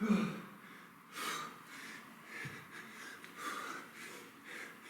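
A man breathing hard through kettlebell reps, with a short grunt at the start and then sharp exhalations about once a second.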